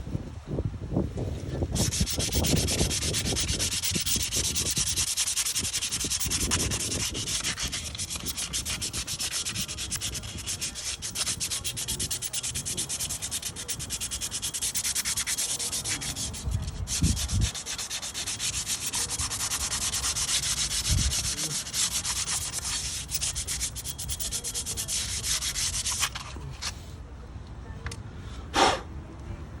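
Steady scratchy sanding or abrasive rubbing by hand, running from about two seconds in until near the end, with a brief break about halfway through. A single short sharp sound comes near the end.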